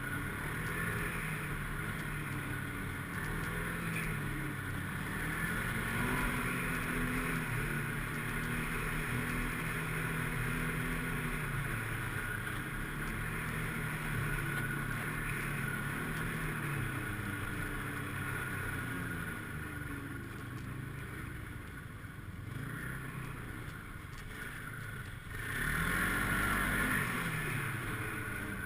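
Snowmobile engine running under changing throttle, its pitch rising and falling every few seconds, with a louder burst of revs near the end.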